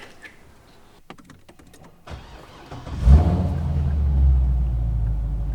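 A few faint clicks, then a car engine starts about three seconds in and settles into a steady low idle.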